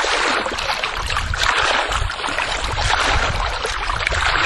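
Water splashing and running: a steady rush dotted with many small splashes.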